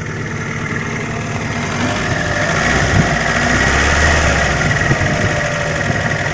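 Opel Omega B's X20XEV 2.0-litre 16-valve four-cylinder engine running, getting louder over the first two seconds, with a steady high whine coming in about two seconds in.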